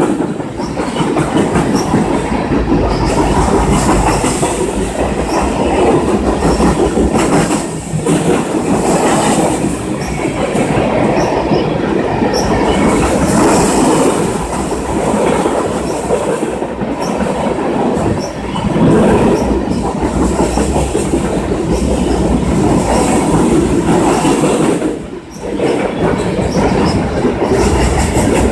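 Canadian National freight train rolling past, its wheels clattering over the rails in a loud, steady rush of noise that dips briefly now and then.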